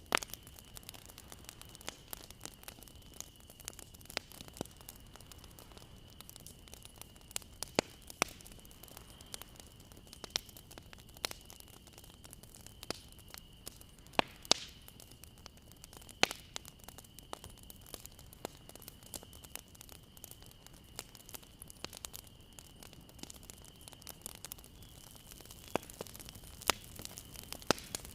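Bonfire crackling: irregular sharp pops and snaps of burning wood over a soft hiss, a few pops much louder than the rest, with a faint steady high tone underneath.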